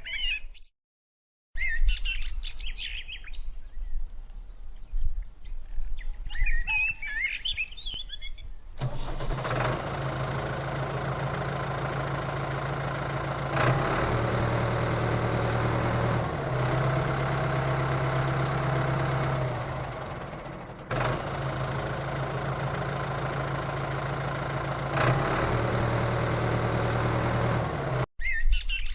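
Birds chirping for the first several seconds. After that a small motor, the DIY mini tractor's, runs with a steady hum that shifts slightly in pitch and breaks off briefly twice.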